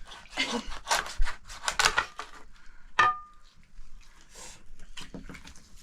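Pots and utensils being handled: irregular clattering and rubbing, with one sharp metallic clink that rings briefly about three seconds in.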